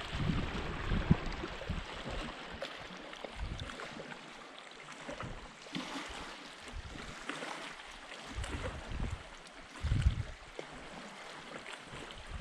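Shoreline water lapping and washing, with irregular gusts of wind rumbling on the microphone.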